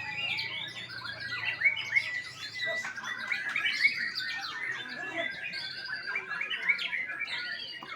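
Birds chirping and squawking: many short, overlapping calls and whistles, with a few louder sharp notes near the middle.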